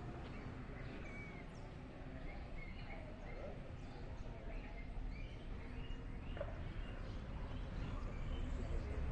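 Faint outdoor birds chirping now and then, short scattered calls over a low steady rumble.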